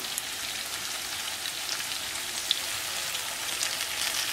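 Tuna steaks sizzling in oil in a frying pan: a steady hiss with fine scattered crackles.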